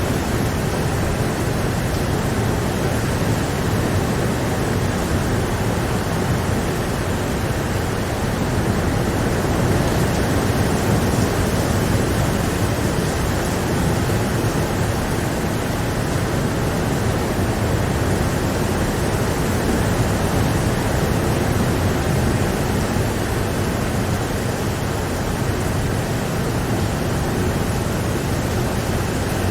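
Steady rain: a loud, even rushing noise with no breaks.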